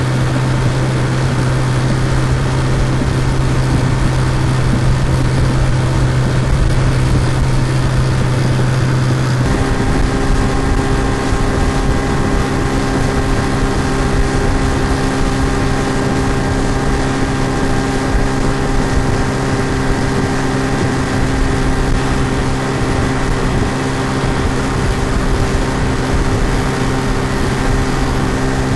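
Looped sound-effect recording of an outboard motor running steadily at speed. About nine seconds in, its tone changes abruptly: a strong low hum drops out and a different set of steady pitches takes over.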